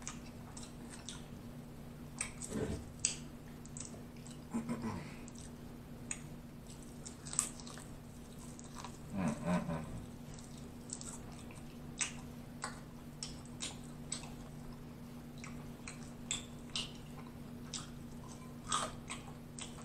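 Close-up chewing and biting of a fried chicken wing: irregular wet mouth clicks and small crunches.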